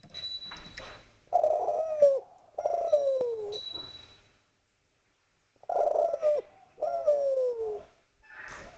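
Spotted dove (derkuku/tekukur) cooing: four drawn-out coos in two pairs, each coo falling in pitch, with a pause of about two seconds between the pairs.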